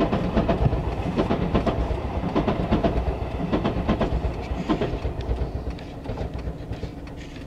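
The rear carriages of the Seven Stars in Kyushu cruise train rolling past, wheels clicking over the rail joints. The clatter fades over the last couple of seconds as the train moves away.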